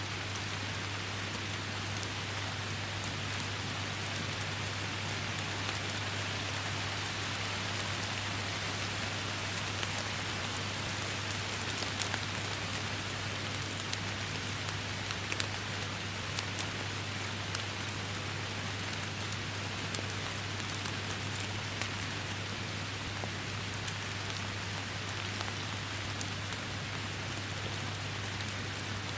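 Steady rain falling in a forest, an even hiss with many individual drops ticking sharply on nearby surfaces. A steady low hum runs underneath.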